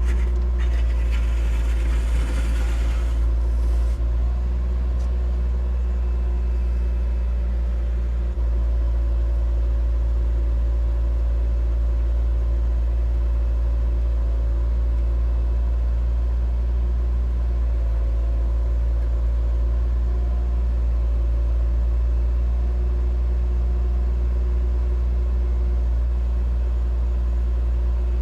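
Excavator's diesel engine running steadily while digging, with a burst of scraping noise between about one and four seconds in.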